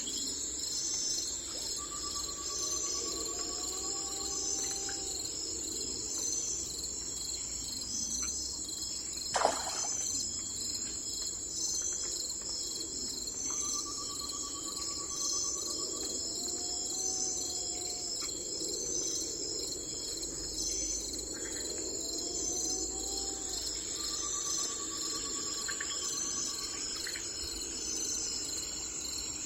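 Crickets chirping steadily in a high, even pulse about once a second, with a bird's short trill and a rising call that come back about every ten seconds. A single sharp click about nine seconds in is the loudest sound.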